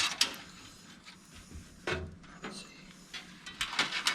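Hands working cables and small plug connectors inside a desktop PC case, with scattered light clicks and rustling. There is a cluster at the start and more near the end.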